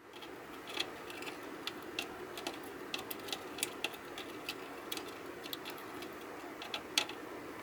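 Irregular light clicks and taps, some two dozen spread unevenly, with the sharpest near the start and about seven seconds in, over a steady low hum.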